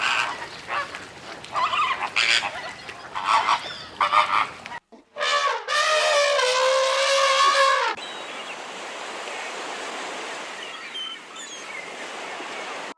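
Waterfowl calling: a run of short honks, then after a brief pause one long drawn-out call of about three seconds. After that a steady hiss with faint high chirps.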